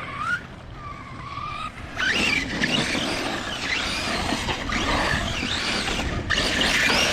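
An Arrma RC monster truck's brushless electric motor whines up and down in pitch as it is throttled, with tyres scrabbling over dirt. It gets louder about two seconds in.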